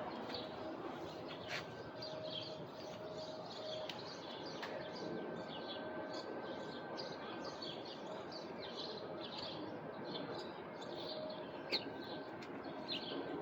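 Small birds chirping in quick, repeated short notes, over a steady low background hum.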